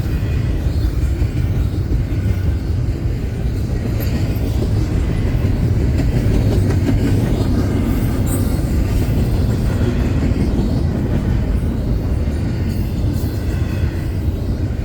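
Union Pacific double-stack freight train rolling past at speed, a steady low rumble of wheels on rail with faint clatter.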